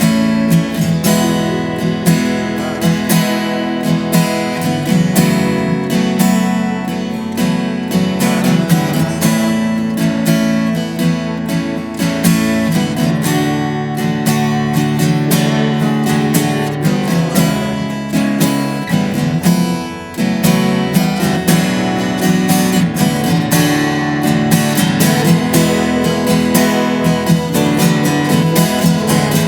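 Acoustic guitar strumming chords steadily, an instrumental stretch of a closing worship song. The level dips briefly about two-thirds of the way through.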